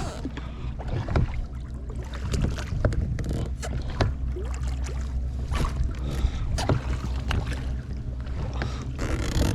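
A steady low engine-like hum runs throughout, with scattered short clicks and knocks over it.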